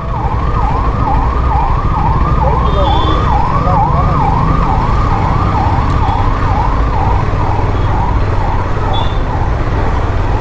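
An emergency vehicle's siren sounding in rapid repeating up-and-down sweeps, about two a second, over a steady low rumble of road noise; the siren fades out near the end.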